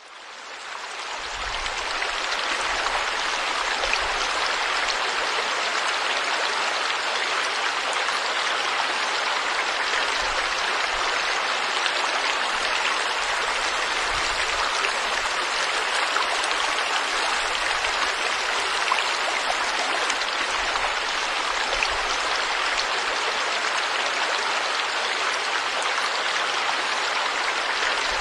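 River water flowing steadily, a continuous rushing hiss that fades in over the first two seconds.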